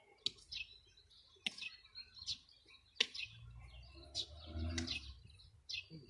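Small birds chirping in short repeated calls, with three sharp clicks about a second and a half apart.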